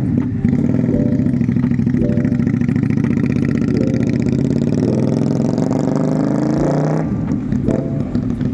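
QJMotor SRV 250 V-twin motorcycle engine running under way, its pitch creeping up and then dropping about seven seconds in.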